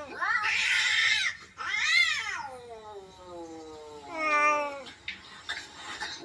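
Domestic cat meowing three times in long, drawn-out calls that rise and fall in pitch. The first call turns raspy.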